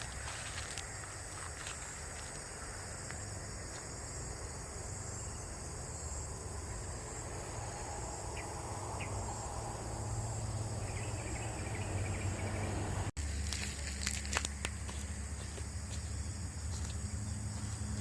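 A steady, high-pitched chorus of insects, with a few sharp clicks. Around two-thirds of the way in, the sound cuts out for an instant and a low steady hum becomes stronger.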